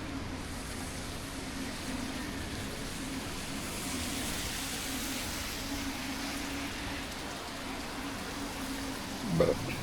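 Steady hiss of riding a bike on wet roads in light drizzle, with a constant low hum underneath. A brief rising squeak near the end is the loudest moment.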